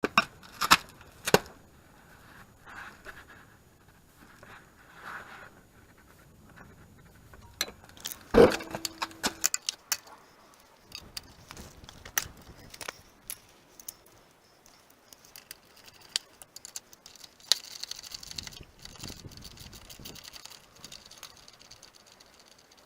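Metal tools and parts clinking and knocking as they are handled, with one loud clank about eight seconds in that rings briefly. Later comes a stretch of scratchy scraping.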